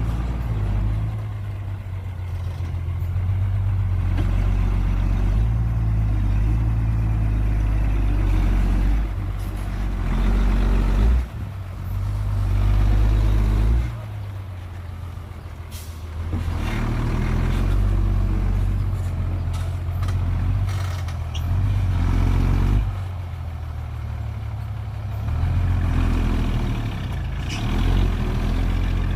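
Diesel engines of a bulldozer and dump truck at work. The engine note repeatedly swells under load for a few seconds and drops back toward idle.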